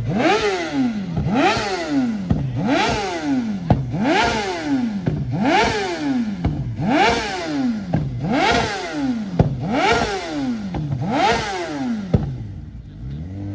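A modified car engine revved over and over, its pitch climbing and dropping back about every second and a half, with a sharp pop now and then. The revving stops about twelve seconds in.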